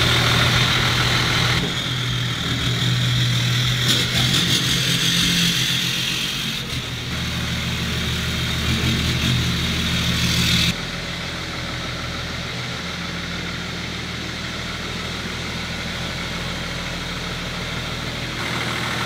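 Whipple-supercharged Chevrolet LS3 6.2-litre V8 in a Land Rover Defender 110, idling steadily. Its tone changes abruptly a few times, about 1.5, 7 and 11 seconds in.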